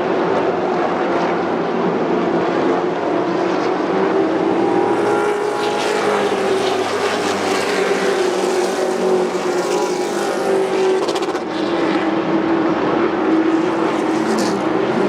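Race trucks' engines running hard on an oval track, a loud, continuous drone whose pitch wavers slowly as the trucks circulate.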